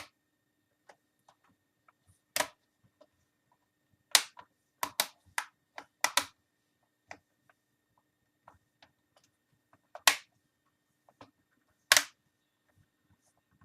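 Plastic clips of an Acer Aspire 5750 laptop's screen bezel snapping into place as it is pressed on around the display: sharp, irregular clicks, about a dozen, with the loudest near 2.5, 4, 5, 6, 10 and 12 seconds in.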